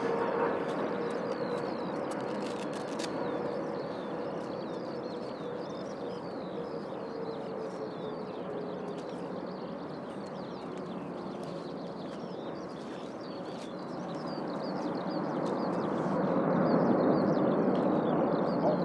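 Jet engines of a Boeing 777-300 on landing: a steady whine over a broad rush, sinking slightly in pitch and fading over the first half, then the rush swells again about three quarters of the way in. Birds chirp throughout.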